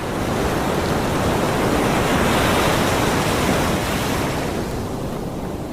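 An even rushing noise, like surf or wind, that swells over the first two seconds or so and then slowly fades away.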